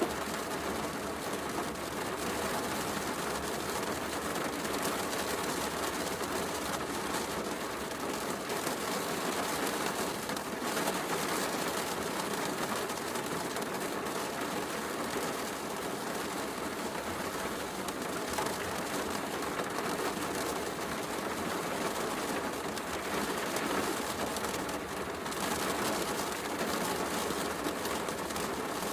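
Heavy rain falling steadily, mixed with a fireplace crackling in light, scattered clicks.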